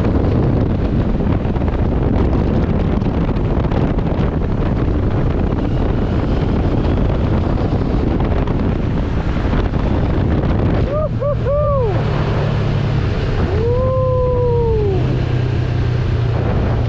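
Wind rushing over a helmet microphone while riding a Benelli TRK 702, its parallel-twin engine humming underneath; the wind noise dominates for the first ten seconds or so, after which the low engine hum stands out more steadily. Short sung-out vocal exclamations come in briefly about two-thirds of the way through.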